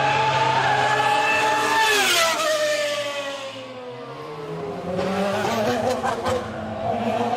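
Ferrari Formula 1 car engine screaming at high revs as the car passes: the pitch drops sharply about two seconds in, the sound fades briefly, then an engine note climbs again as revs rise, with a few sharp crackles around the middle.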